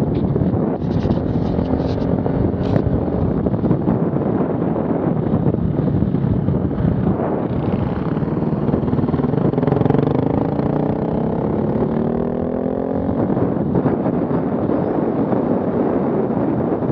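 Off-road vehicle engine running, with its pitch climbing as it revs from about seven to thirteen seconds in, over a steady low rush of noise.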